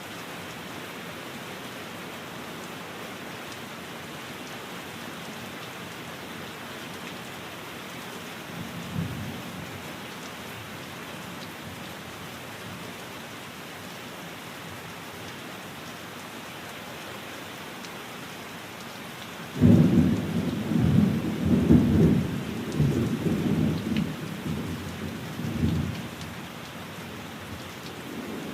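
Steady rain, with a faint low rumble of thunder about nine seconds in. About twenty seconds in a loud thunderclap starts suddenly and rolls on in several swells for about six seconds.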